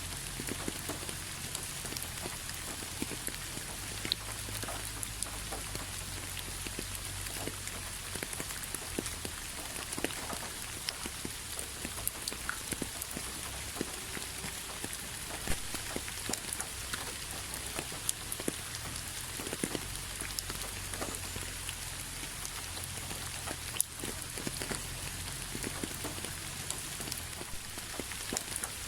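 Steady rainfall with individual drops pattering irregularly on a hard surface, over a low background rumble.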